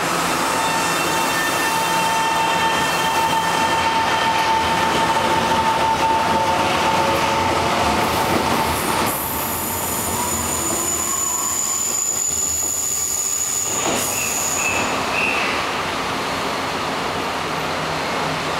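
Taiwan Railways electric commuter train pulling out of the station platform, running with a steady whine of several tones. About halfway in, a thin high-pitched squeal sets in and lasts several seconds.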